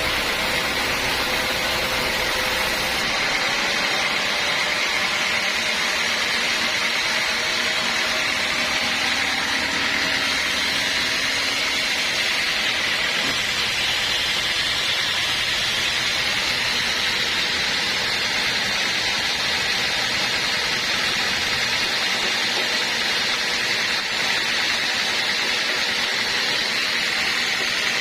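Sawmill saw running steadily: a constant mechanical noise with a high whine that does not change.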